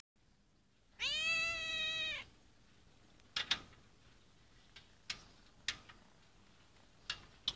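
A domestic cat gives one long, drawn-out meow about a second in. A few faint, short clicks follow.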